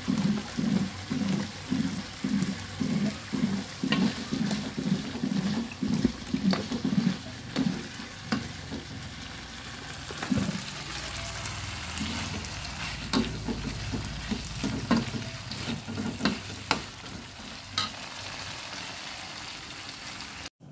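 Food being stir-fried in a pan. For the first several seconds there is a rhythmic stirring, about two strokes a second. After that come a steadier sizzle and scattered sharp clinks of the utensil against the pan.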